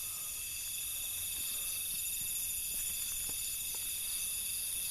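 Night insect chorus: crickets trilling steadily in several high, overlapping pitches, with a few faint clicks.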